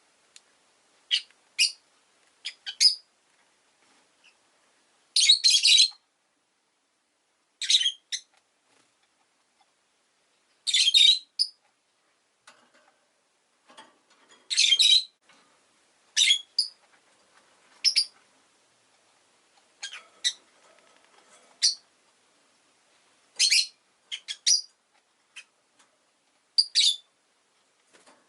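Rosy-faced lovebird giving short, sharp high-pitched chirps every second or two, some in quick pairs or threes, with brief pauses between.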